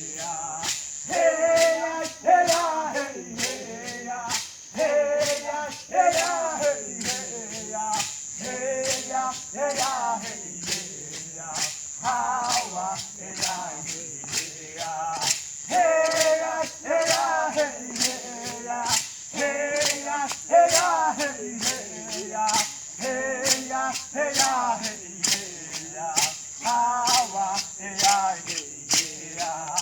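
Men and women singing a chant together, over a steady percussion beat of about two to three strikes a second.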